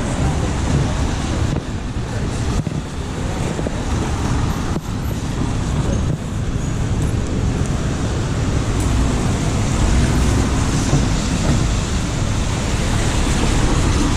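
Steady road-traffic noise: a continuous rumble of passing motor vehicles.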